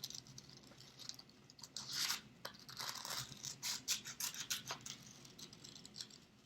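Scissors cutting paper: a run of short, irregular snips and paper scratches.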